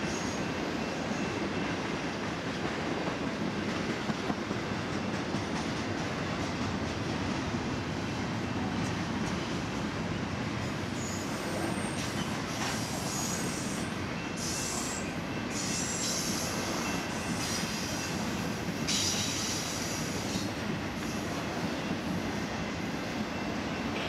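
Double-stack intermodal freight train's loaded well cars rolling past: a steady rumble of steel wheels on rail. From about halfway through, brief high-pitched wheel squeals come and go over the rumble.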